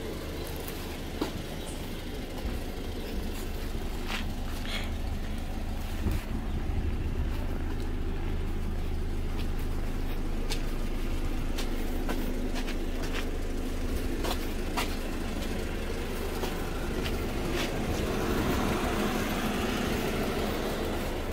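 Audi A6 3.0T's supercharged V6 idling steadily, a little louder from about six seconds in, with a few light clicks.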